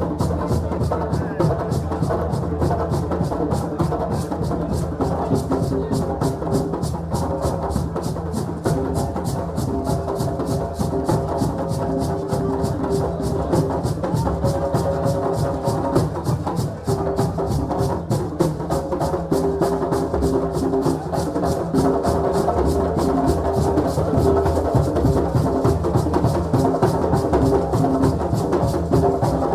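West African drums and percussion playing a fast, even beat, with sustained pitched sounds above the drumming.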